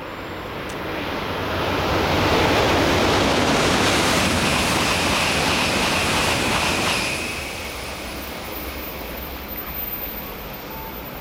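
N700-series Shinkansen passing at high speed: a rush of noise that builds over the first two seconds and holds for about five, with a faint high whine in its middle, then drops off sharply about seven seconds in, leaving a lower fading rumble.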